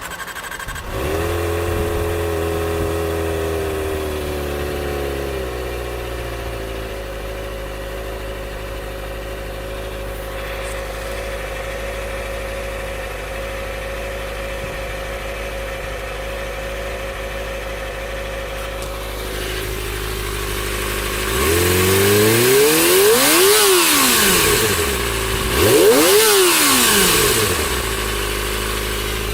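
Kawasaki ZX-25R's 250 cc inline-four engine starting up and running at a fast idle that eases to a lower, steady idle within a few seconds. Near the end it is revved twice, each rev climbing and falling back over about two seconds.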